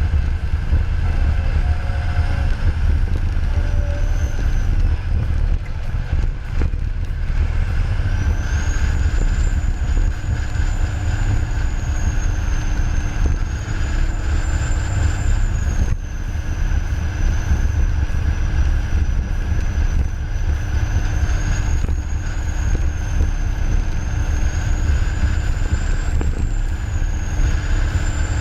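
Caterpillar D10 bulldozer's diesel engine running steadily under load as it pushes coal. A thin high whine that slowly wavers in pitch joins about eight seconds in.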